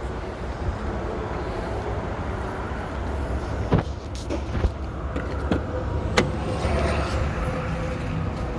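Box truck running: a steady low engine and road rumble, with a few sharp clicks and knocks partway through.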